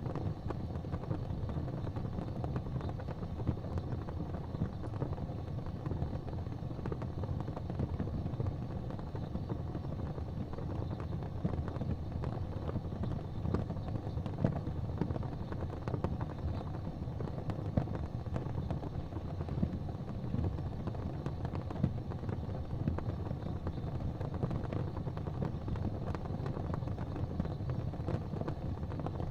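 Fireplace fire crackling, with frequent small pops and snaps over a steady low rumble.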